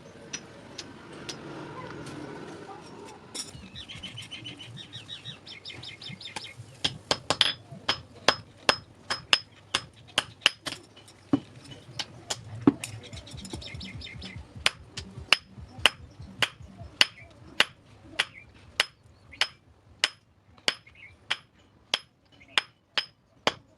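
Blacksmith's hammer striking metal on an anvil, each blow ringing sharply. The blows start scattered and settle into an even rhythm of about two a second in the second half.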